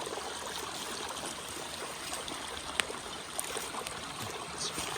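Running stream water, a steady even rushing, with one sharp click a little under three seconds in.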